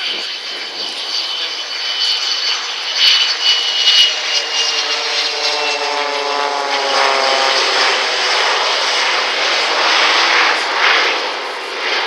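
Three-engined Boeing 727 jet flying past low with its escorting propeller aerobatic planes. A high whine and a buzzing engine note both fall in pitch as the formation passes, then a broad jet roar swells and holds.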